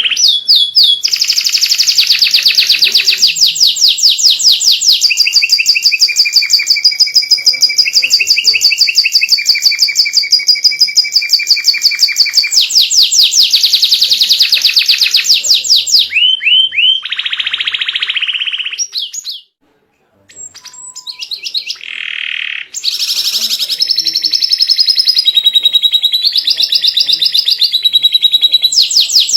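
White domestic canary singing a long, loud song of rapid trills, fast runs of repeated chirping notes. The song breaks off for about a second about two-thirds through, then starts again.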